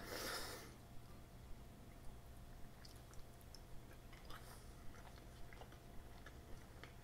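Faint chewing of a mouthful of tender braised beef short rib and mashed potatoes, with scattered soft mouth clicks. A short breathy hiss comes at the very start.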